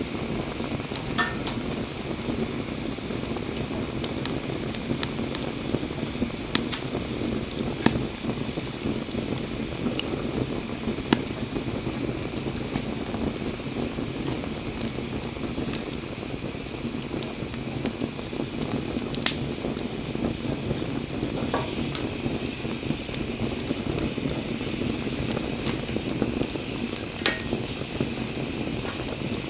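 Wood fire burning with a steady low rushing hiss, broken by occasional sharp crackles and pops every few seconds, the loudest pop a little past the middle.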